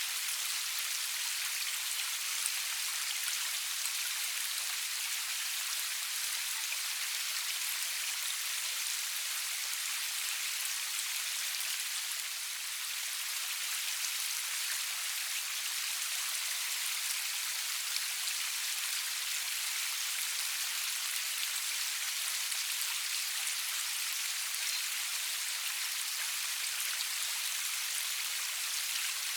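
Steady rain falling, a dense even hiss of drops spattering on a surface, with fine ticks of individual drops throughout. There is no thunder and no music.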